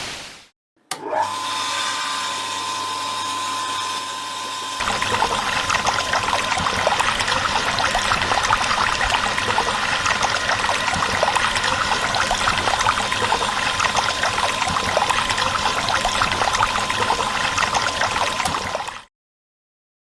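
A small electric motor running with a steady whine, joined about five seconds in by a louder, dense crackling noise that lasts until it cuts off suddenly.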